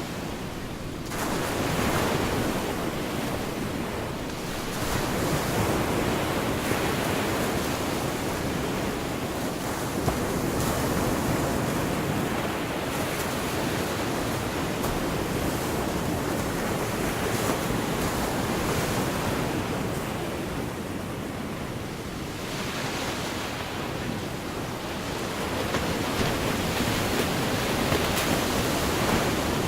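Gulf of Mexico surf: small waves breaking and washing up the beach, the rush swelling and falling back every few seconds.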